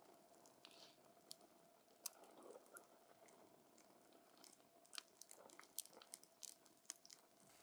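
Wood campfire crackling: scattered sharp pops and snaps from the burning logs, coming thicker about two thirds of the way through, over a faint low hiss of the fire.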